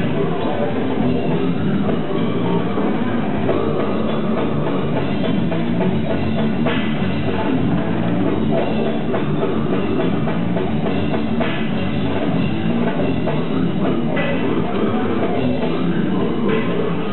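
Death metal band playing live: distorted electric guitars and a drum kit, loud and unbroken.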